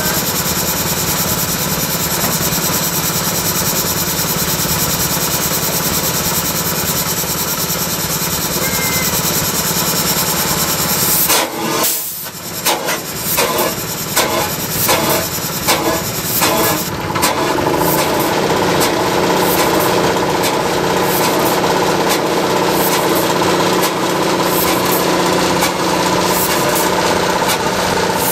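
Old stationary engines running, one after another. About a third of the way in the sound breaks to a slower engine with separate exhaust beats a little more than once a second, then to a steady running engine near the halfway point.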